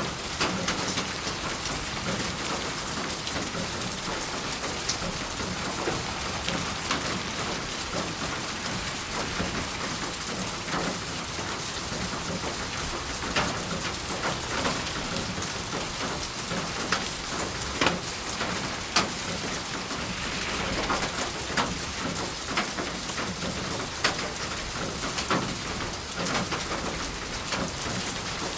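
Steady rain falling on a surface, with scattered sharper drips and taps standing out now and then.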